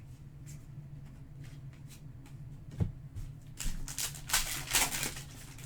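Trading cards being handled by hand: a few light clicks and a tap, then a burst of paper-and-foil rustling from about three and a half to five seconds in.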